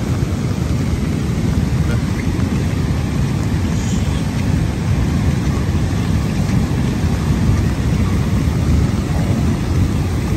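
Loud, steady low rumbling noise with no clear pitch, holding an even level throughout.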